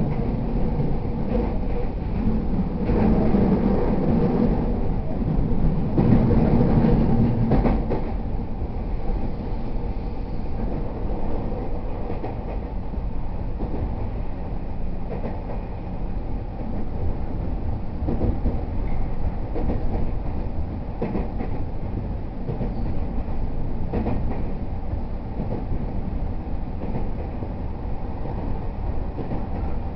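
E231-series commuter train running, heard from inside the car: steady wheel-and-rail rumble with occasional clacks from the track. A steady hum lies on top for the first eight seconds or so, then stops and the running noise eases.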